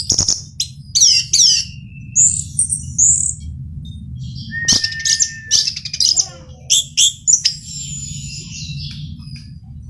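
Male orange-headed thrush singing a varied song of clear whistles, rapid down-slurred notes and short trills, in phrases broken by brief pauses, over a steady low hum.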